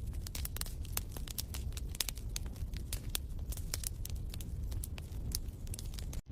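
Wood fire crackling in a fireplace: irregular sharp pops and snaps over a steady low rumble, broken by a brief sudden gap near the end.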